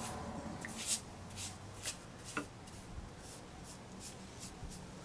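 A watercolour brush stroking and dabbing on paper while laying a glaze, heard as a string of short, soft swishes at an uneven pace.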